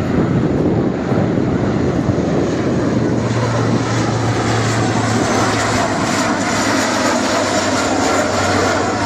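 Engine noise of an airshow display aircraft in flight, loud and steady.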